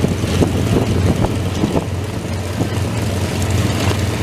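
An engine running steadily with a low drone, with wind buffeting the microphone.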